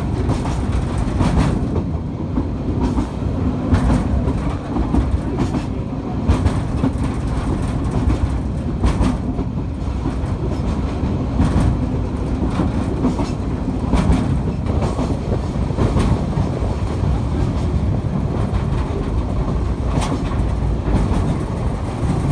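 Narrow-gauge train of the Balatonfenyves light railway, hauled by an Mk48 diesel locomotive, running along the track: a steady low rumble with wheel clicks over the rail joints at uneven intervals.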